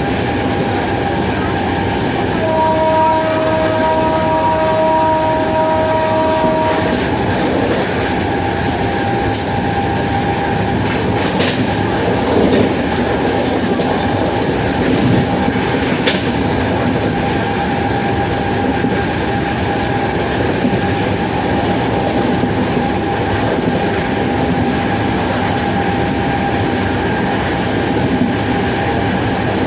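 WAP-7 25 kV AC electric locomotive running, a steady electric whine over continuous rail noise. A train horn sounds one long chord from about two and a half to seven seconds in.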